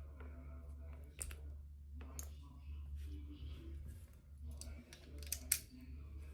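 Lego bricks being handled and pressed together: a few sharp plastic clicks, a cluster of them about five seconds in, over a steady low hum.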